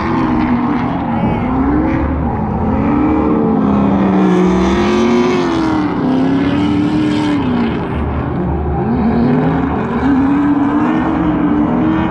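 Drift car engines revving up and down repeatedly, their pitch rising and falling every second or two over a continuous loud din.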